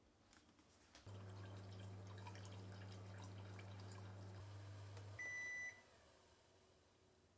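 A kitchen appliance hums steadily for about four seconds with light clicking, then goes quiet and gives one short, high electronic beep, the way an appliance signals that it has finished.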